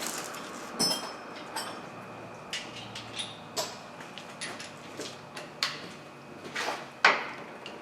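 Scattered metallic clicks and clinks of a bolt and hand tools being worked on an engine as a side bolt of the fuel rail assembly is refitted, with one brief ringing clink about a second in.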